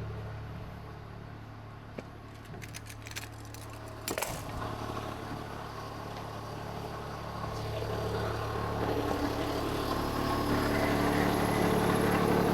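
Excavator diesel engine idling steadily, with a few sharp metallic clicks and a brief rattle about two to four seconds in; the engine grows louder from about eight seconds in.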